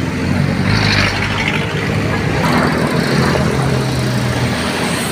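Large diesel bus engine running close by, its hum stepping up in pitch about halfway through as it pulls away, with a burst of hiss about a second in.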